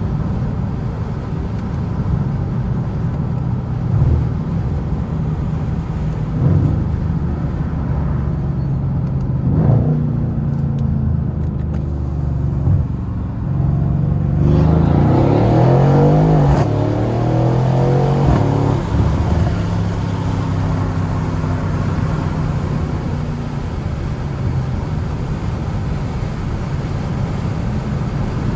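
Mercedes-AMG C63's twin-turbo V8 engine running while the car is driven, its pitch shifting up and down; about halfway through it gets louder as the car accelerates, the pitch climbing and bending, then settles back to a steady cruise.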